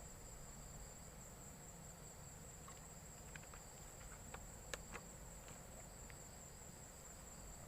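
Insects, crickets by the sound of it, trilling steadily at a high pitch, with a few faint clicks near the middle, one sharper than the rest.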